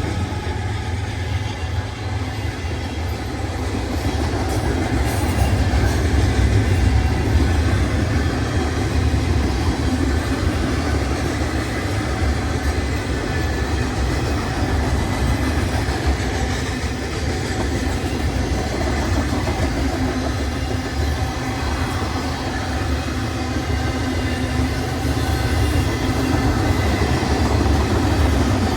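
Loaded freight train rolling past: a steady, loud rumble of the cars with clattering of wheels on the rails.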